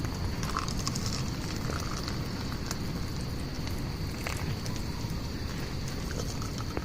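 Steady rain at night pattering on a tent and its rain cover, with scattered sharp drip ticks and a steady high-pitched tone in the background.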